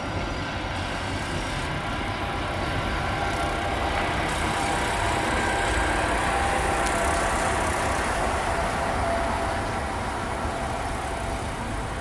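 Train standing at the platform with its engine or equipment idling: a steady low rumble with a faint whine that swells in the middle and eases off near the end.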